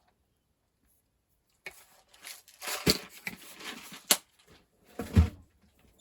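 Close handling noise of small parts: rustling and tearing sounds with a few sharp clicks, ending in a knock with a low thud about five seconds in. It starts after about a second and a half of silence.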